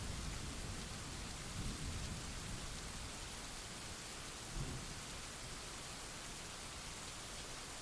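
Steady rain hissing, with a low rumble of distant thunder that dies away over the first few seconds. A short low thump comes about halfway through.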